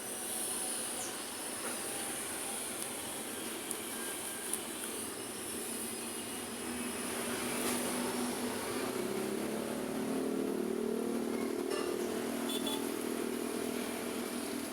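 Street traffic going by, with a passing vehicle's engine note building from about halfway through and loudest over the last few seconds.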